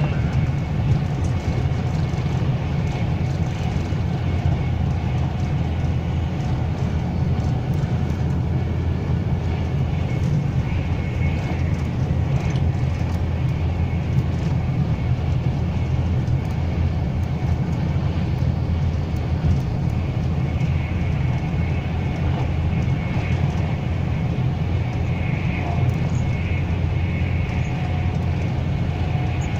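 Steady running noise heard inside a Class 390 Pendolino electric train at speed: a deep, even rumble of the wheels on the track, with a faint high steady whine.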